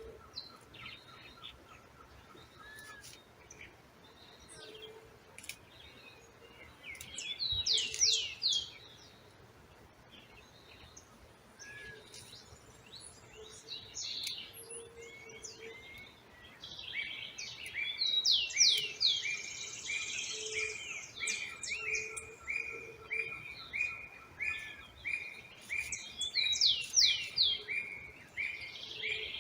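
Several wild birds singing. One repeats a short burst of quick, high, downward-sliding whistles every several seconds. From a little past halfway another keeps up a long, even series of shorter notes, a couple each second.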